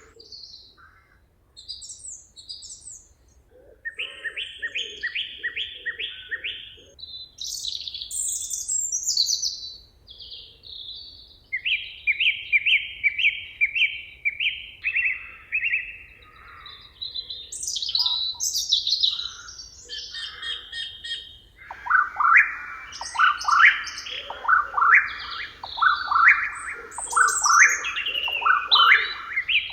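Several songbirds singing in a forest, overlapping phrases of quickly repeated sweeping notes and trills, with a short lull about two seconds in.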